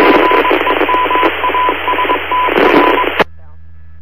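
Police two-way radio channel keyed open with no voice: loud static hiss overlaid with a broken, beeping steady tone. It cuts off abruptly about three seconds in.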